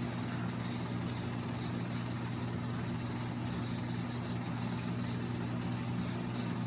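Steady low hum with no distinct work sounds.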